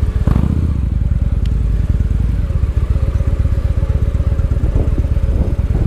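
Victory Highball's big air-cooled V-twin running steadily with a dense low pulsing exhaust note as the motorcycle is ridden.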